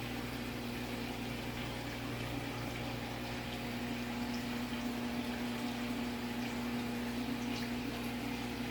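Saltwater aquarium's pump running with a steady low hum over a constant wash of circulating water.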